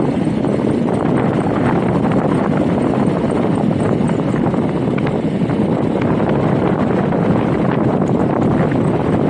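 Wind buffeting the microphone during riding: a loud, steady, rumbling rush with a fast flutter in it. It starts abruptly and runs on unchanged.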